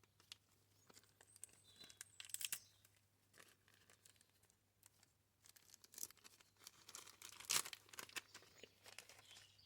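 Faint crinkling and tearing of a carburettor rebuild kit's plastic packet being opened, with small clicks of handled parts. It comes in a few short spells, about two seconds in and again from about six seconds on.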